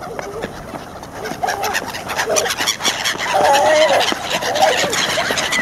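A flock of birds calling, many short overlapping calls one after another.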